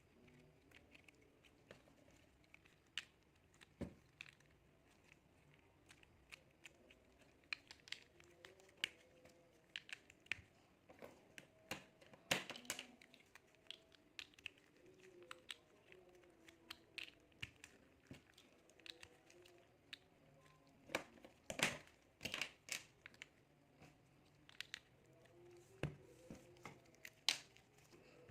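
Tiny plastic building blocks being handled and pressed together: irregular light clicks and taps, with a few sharper snaps about halfway through and near the end.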